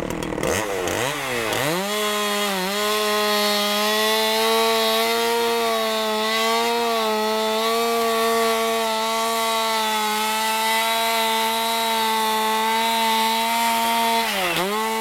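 A two-stroke chainsaw cutting through roof decking to open a ventilation hole. It revs up sharply about a second in and dips briefly as the chain bites. It then holds a steady high whine at full throttle, and near the end the pitch sags as it winds down.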